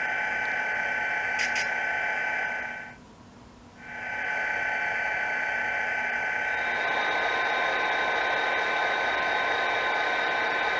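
Sound decoders in HO-scale model diesel locomotives playing a diesel engine running, through tiny speakers: a steady hum with high, whiny tones. The sound cuts out for about a second around three seconds in, then comes back, and from about seven seconds a rougher hiss joins it.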